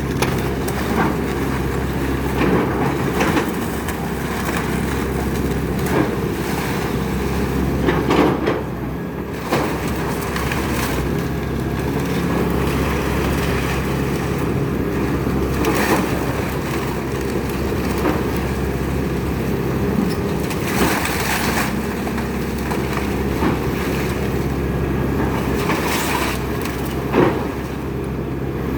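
Excavator engine running steadily while wood is crushed and splintered, with scattered sharp cracks and crunches; the loudest come about eight seconds in and near the end.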